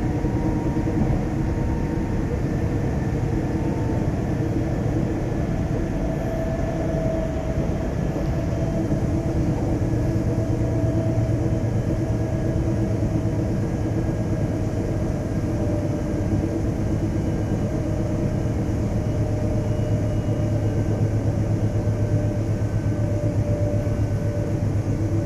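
Alstom X'Trapolis electric multiple unit running, heard from inside the car. It is a steady rumble of wheels on rail with thin traction-motor whine tones that slowly fall in pitch.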